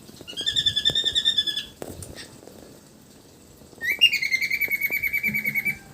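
A pet bird giving two long, rapidly trilling calls: one starting just after the beginning and lasting about a second and a half, and a louder one about four seconds in lasting about two seconds.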